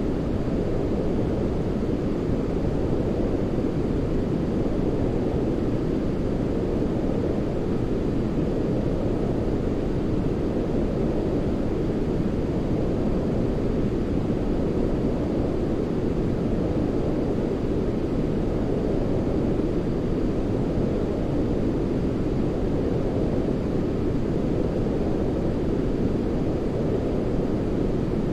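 Steady, deep rushing noise of a white-noise track for sleep, heavy in the low range and dull on top, with no change in level.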